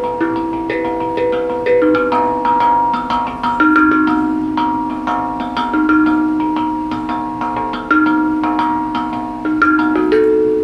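A tuned percussion instrument being struck, playing a flowing melody of ringing notes, several a second, that overlap as they sustain.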